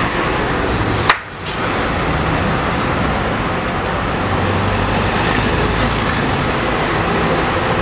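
A clapperboard snaps shut once about a second in, slating the take, over steady road-traffic noise picked up by the camera's own microphone; the background dips for a moment right after the clap.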